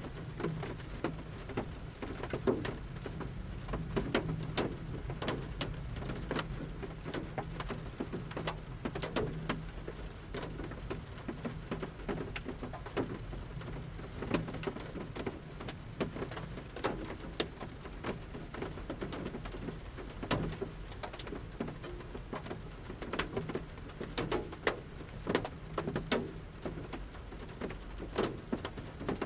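Large raindrops falling from the forest canopy onto the roof of a camper van, heard from inside. Separate sharp taps land at irregular intervals over a steady low rumble.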